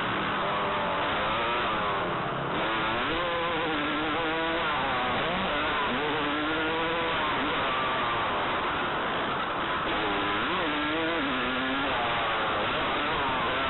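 Motocross dirt bike engine revving up and down as the throttle is worked through the track, its pitch rising and falling several times, over heavy wind rush.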